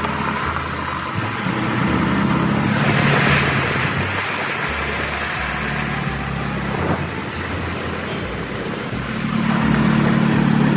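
Kawasaki Mule utility vehicle's engine running as it drives, its note easing and picking up again with the throttle and growing louder about nine seconds in, with wind noise over it.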